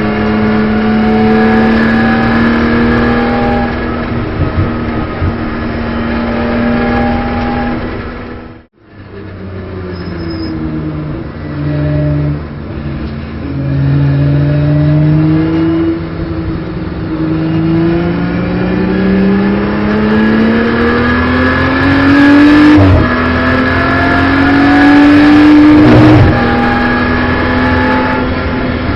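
Onboard engine sound of a BMW M240i Racing Cup's turbocharged straight-six at racing speed: held at steady revs, cut off briefly about eight seconds in, then pulling up through the gears with rising pitch and two quick upshifts near the end.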